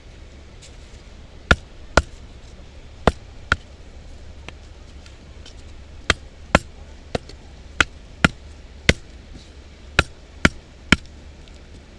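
Firewood being split by batoning a Mora knife: a dozen or so sharp wooden knocks as the baton strikes the blade's spine, irregularly spaced and often in pairs about half a second apart.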